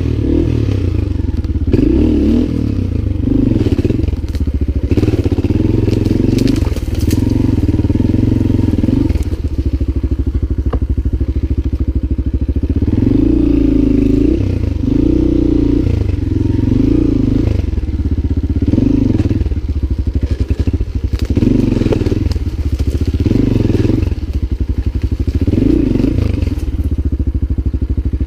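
Lifan 200GY-5 enduro motorcycle's single-cylinder engine being ridden, the revs rising and falling again and again throughout.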